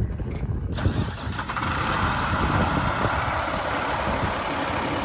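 The diesel engine of a 2011 International WorkStar 7300 bucket truck fires up about a second in and settles into a steady idle, sounding healthy.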